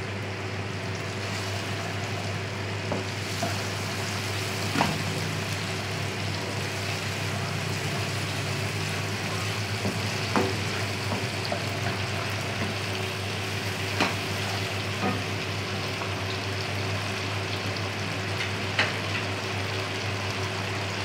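Chicken pieces sizzling in oil and sauce in a nonstick wok, stirred with a wooden spatula that knocks against the pan a few times, over a steady low hum.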